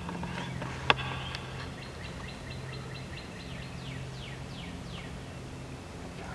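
A songbird singing: a quick run of short repeated chirps, then several downslurred whistled notes. A single sharp click sounds about a second in.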